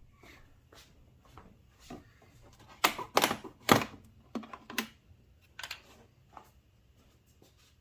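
Irregular clicks and knocks of objects being handled, with a cluster of louder knocks and rattles about three to five seconds in.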